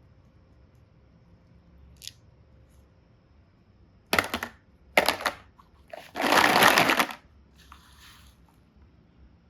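Close handling sounds: a small click, then three loud bursts of crackling, rustling noise, the last one the longest at about a second, and a fainter rustle after.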